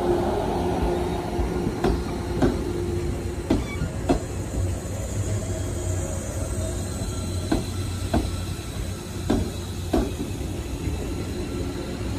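JR 415 series electric train rolling slowly past, its wheels clacking over rail joints in pairs every few seconds over a steady low hum. A faint high wheel squeal comes in around the middle.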